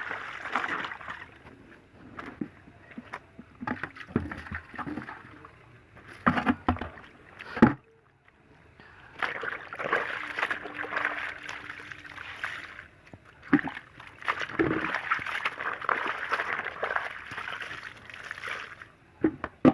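Clothes being rinsed by hand in a bowl of water: irregular sloshing and splashing in stretches, with a few sharp knocks.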